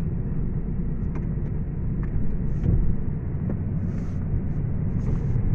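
Snow plow truck running, a steady low engine and road rumble.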